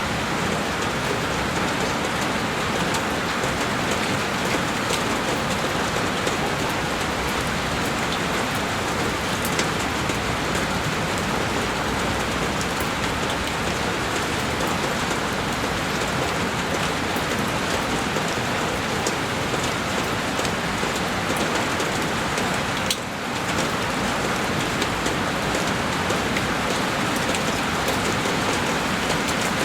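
Heavy rain beating on a window pane, a steady dense hiss with close drop ticks, broken by a short tick and momentary dip in level about three quarters of the way through.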